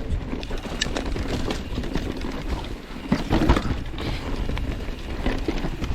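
Mountain bike riding over a rough dirt trail: tyres crunching over dirt and loose rock with the bike rattling and knocking, and wind rumbling on the microphone. The knocks bunch up a little after three seconds in.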